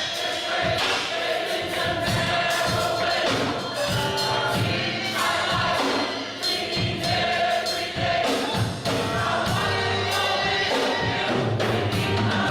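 Gospel choir singing with a band, bass and drums keeping a steady beat.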